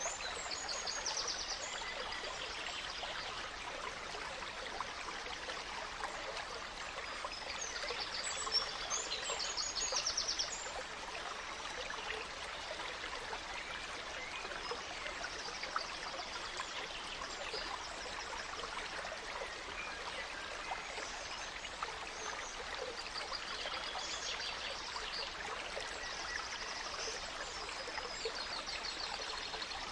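Gentle stream trickling and babbling steadily, with forest songbirds singing short rapid trilled phrases now and then, loudest about a third of the way in.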